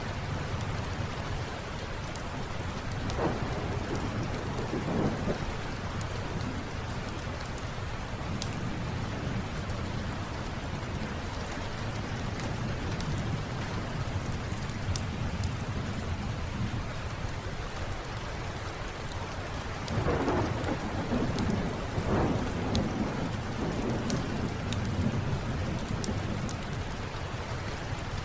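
Steady rain with thunder rumbling, once about three seconds in and again, louder, about twenty seconds in. Occasional sharp crackles from a fireplace sound over it.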